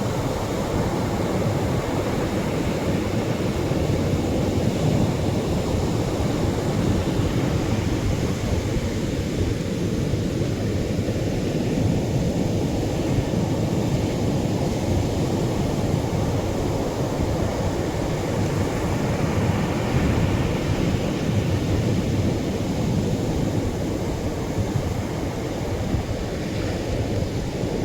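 Atlantic surf breaking on a sandy beach: a continuous low wash of waves that slowly swells and eases over several seconds.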